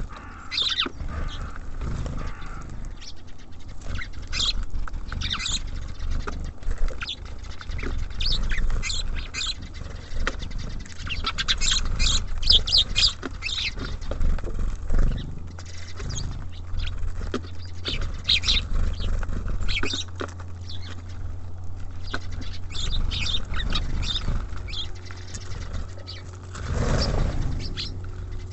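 Small songbirds at a feeder, such as tits and sparrows, chirping and calling in quick short notes that come in busy clusters, over a steady low hum.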